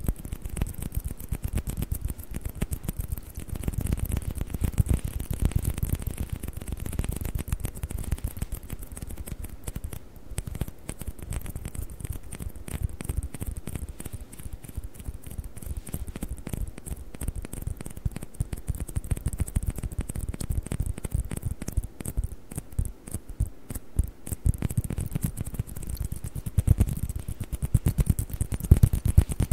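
Fast, continuous tapping on plastic table tennis balls: a dense run of light clicks, many per second, with no pauses.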